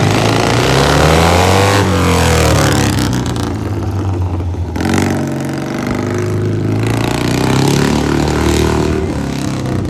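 Classic Rickman Metisse motorcycle engine running and being revved: the pitch climbs in the first couple of seconds, drops back, and rises again later.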